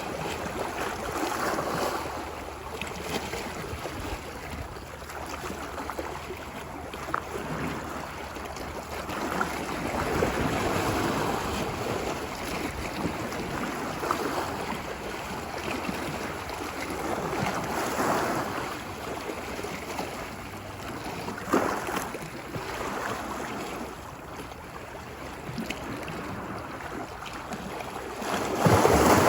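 Ocean waves washing ashore on a beach, the surf swelling and easing every few seconds, with a few sharper splashes.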